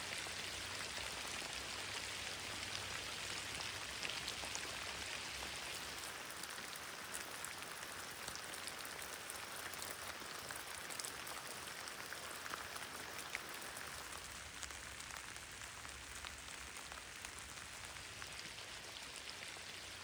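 Heavy rain falling steadily, a dense patter of drops with individual drops ticking, easing slightly towards the end.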